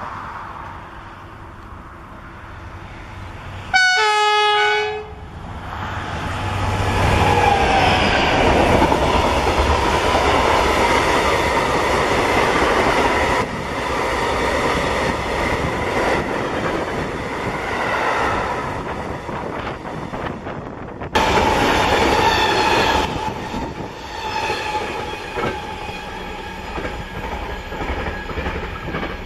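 A pair of BB 75000 diesel locomotives sounds a horn once, briefly, about four seconds in. The locomotives then pass hauling a freight train of flat wagons, with steady wheel-on-rail noise and clatter. About 21 seconds in, the sound cuts abruptly to another freight train moving away.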